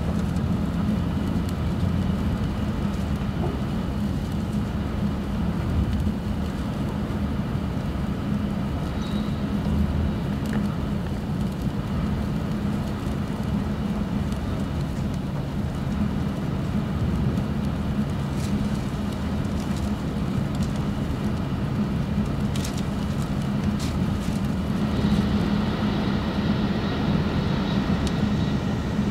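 Steady low rumble and hiss of an E6 series shinkansen running on the line, as heard inside the passenger car. About 25 seconds in, the higher hiss grows stronger.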